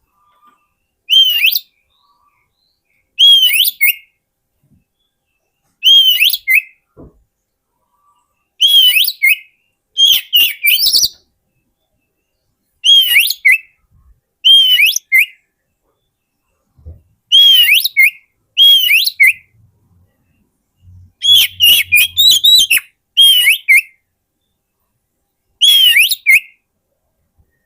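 Oriental magpie-robin (kacer) singing: short, loud whistled phrases repeated every two to three seconds with silence between, each a slurred note rising and falling followed by quicker high notes.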